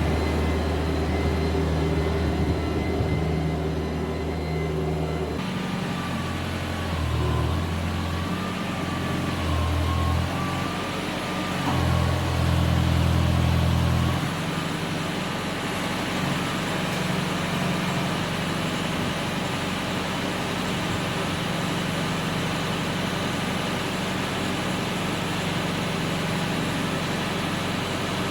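Tractor engine running under load while pulling a chisel plow. Its note changes about five seconds in, rises and falls unevenly for several seconds, and then settles to a steady run.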